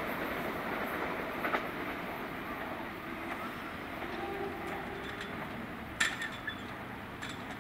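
Southern Class 377 Electrostar electric train running away along the track, its wheel and running noise slowly fading. A couple of sharp clicks stand out, the loudest about six seconds in.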